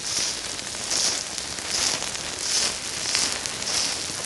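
Steady crackling hiss that swells about every two-thirds of a second: pork sizzling on fire-heated gravel.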